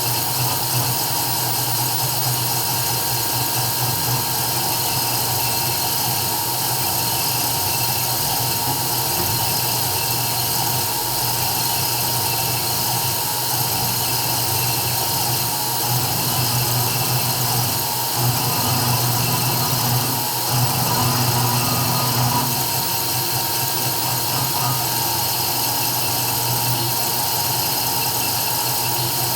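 CNC 3040 desktop router engraving: its spindle motor runs with a steady high-pitched whine and hiss while the stepper motors drive the cutter. It gets briefly louder about two-thirds of the way through.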